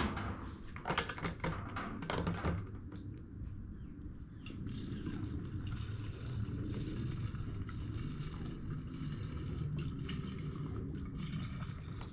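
Gasoline being poured into a push mower's fuel tank, a steady pour that fills the tank and the carburetor bowl, after a few knocks from handling the can in the first couple of seconds.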